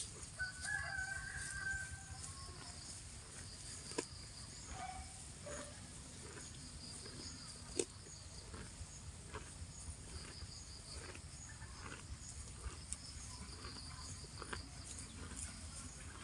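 A cow grazing, cropping grass with short repeated tearing sounds, over steady chirping of insects and birds. A short pitched call sounds near the start, and two sharp clicks come about 4 and 8 seconds in.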